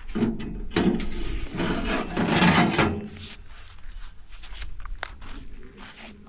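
Rustling and rubbing handling noise for about three seconds, then scattered light clicks and taps.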